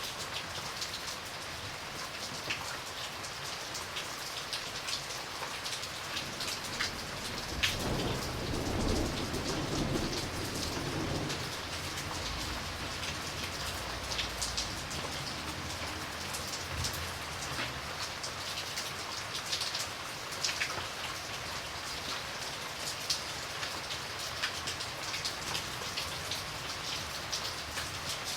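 Steady rain falling, with close drops ticking and pattering on a surface. About eight seconds in, a low rumble of thunder rolls for several seconds and fades.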